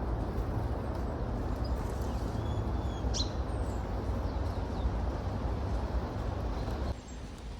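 A few short, high, thin calls from tits about three seconds in, over a steady low background rumble that drops off suddenly about seven seconds in.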